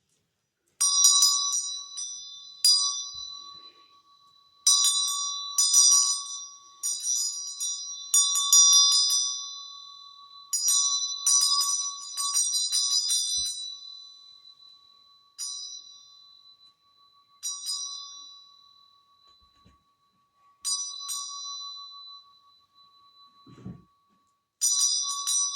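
A small hand bell rung in a dozen or so short bursts of quick strokes. Each burst rings on and fades before the next.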